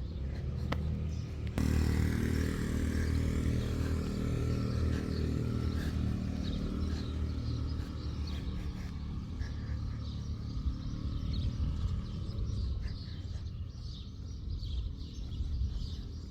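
A motor vehicle's engine comes in suddenly about a second and a half in, runs steadily and slowly fades away. Small birds chirp faintly in the background.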